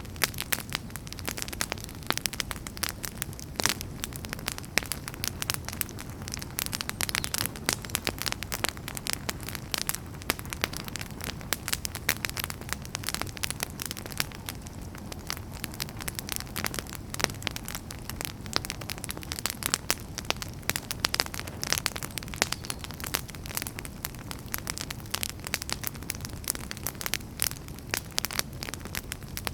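Wood fire in a fireplace crackling steadily, with dense, irregular pops and snaps over a low, even rush of burning.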